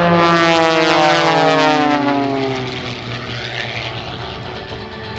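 Propeller aerobatic airplanes with Lycoming piston engines passing by. The engine note drops steadily in pitch over the first few seconds as they go past, then fades to a lower, steadier drone.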